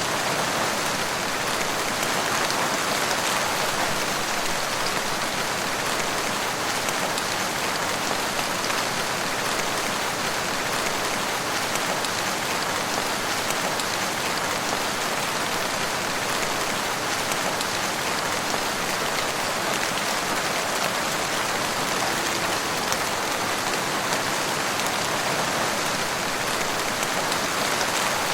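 Steady rain falling, a dense even hiss of many drops on leaves and ground with faint individual drop ticks, no change in intensity.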